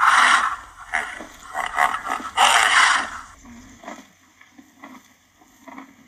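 Rhinoceros breathing noisily: two loud, rushing breaths about two and a half seconds apart, the second longer, with softer short scraping sounds between them and a few faint ones near the end.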